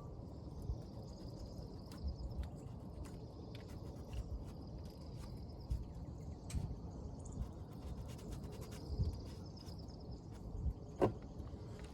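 Scattered light clicks and taps of brake caliper parts being handled and greased, over a faint, steady, high insect drone.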